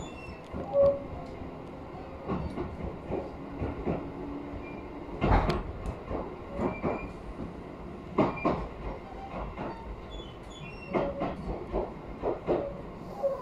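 Inside a moving electric commuter train: a steady running rumble with irregular clacks and knocks of the wheels passing over rail joints, loudest about five seconds in.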